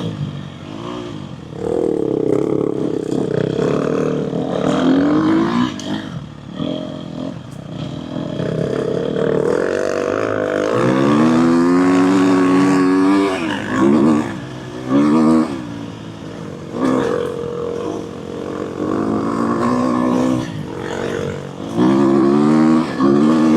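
Dirt bike engine under way, revving up and easing off over and over, its pitch climbing and dropping with throttle and gear changes.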